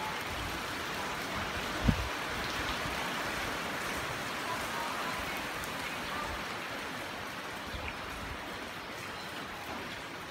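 Steady rain falling, an even hiss of water, with a single short low thump about two seconds in.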